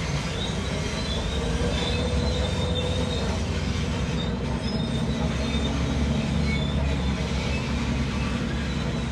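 Tracked earthmoving machine running steadily, its diesel engine rumbling low under high, wavering squeals from the steel crawler tracks.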